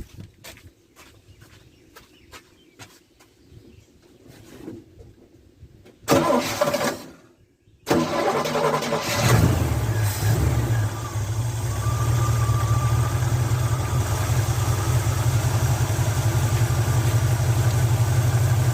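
Chevrolet 350 V8 started: a few faint clicks, a short loud burst of cranking about six seconds in, then the engine fires and settles into a steady idle. The carburetor's idle mixture screws have just been reset to the same setting on both sides.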